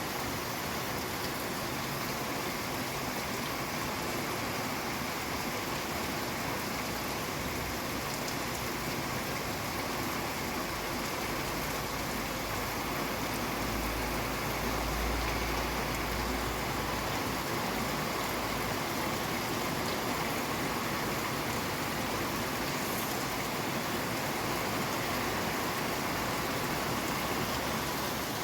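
Steady rain falling, an even hiss. A low rumble comes in for a few seconds about halfway through.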